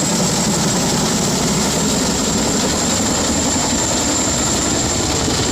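Boeing CH-47 Chinook twin-rotor helicopter running, a steady loud rotor and engine noise with a constant high turbine whine over it.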